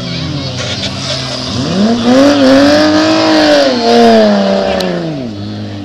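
Demolition derby car's engine revving hard: it climbs about two seconds in, holds high with some wavering, then falls back near the end, over the steady idle of other derby cars.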